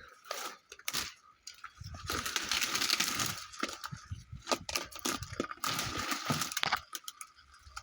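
Rustling foliage with cracking and snapping twigs and branches as someone pushes through dense undergrowth, in two stretches with sharp snaps in between.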